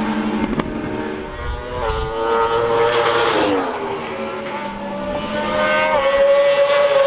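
Racing motorcycles passing at speed with engines at high revs, the engine note dropping in pitch as a bike goes by about three seconds in, then another climbing and falling away at the end.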